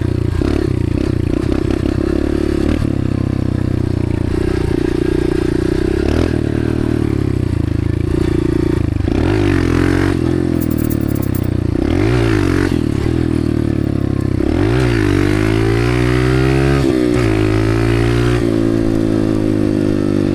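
Dirt bike engine running while riding, steady at first, then its pitch rising and falling several times in the second half as the throttle is worked.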